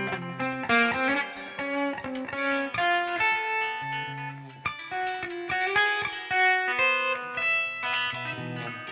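Guitar music: a continuous run of plucked notes with some held bass notes underneath.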